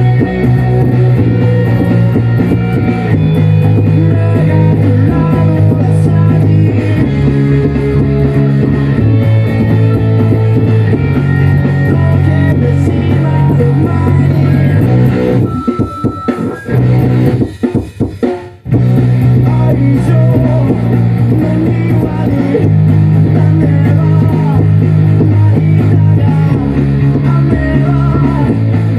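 Rock band music with an electric Thunderbird bass playing a driving bassline over drums and guitar. Around sixteen seconds in the band breaks off for about three seconds of sparse hits, then comes back in full.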